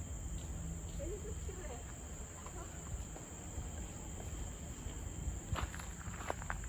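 Steady high-pitched drone of insects in tropical forest, with faint wavering calls in the first half and a few sharp clicks near the end.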